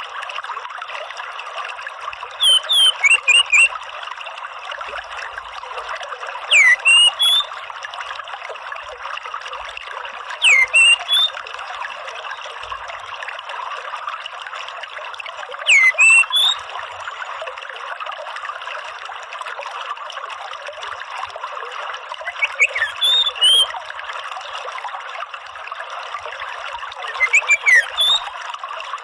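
Orange-headed thrush giving six short call phrases of quick falling and rising notes, a few seconds apart, over a steady wash of running water.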